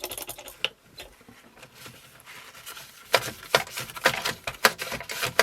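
A cloth rubbing and polishing a plastic control knob, with a quick run of short scrubbing strokes starting about three seconds in.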